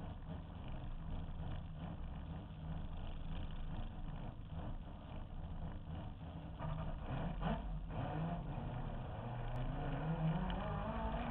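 Mazda RX-7 drift car's rotary engine, heard from the car's roof, running low and steady as the car rolls slowly, then rising in pitch over the last couple of seconds as it picks up speed.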